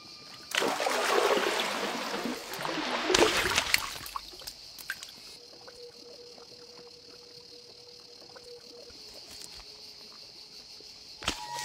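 Water splashing and sloshing for about three seconds, loudest near the middle of that stretch, then quieter water with scattered small clicks.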